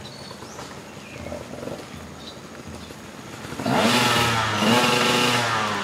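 Enduro dirt bike engine, faint at first, then loud from about three and a half seconds in, revving up and down twice as the bike comes up the trail.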